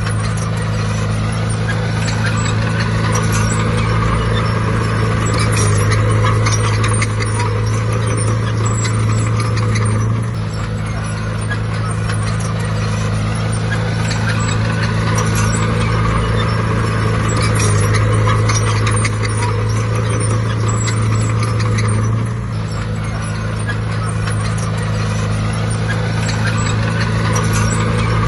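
Bulldozer's diesel engine running hard with a steady drone and a clanking rattle of metal parts. The engine note eases twice, about ten and twenty-two seconds in, then builds again.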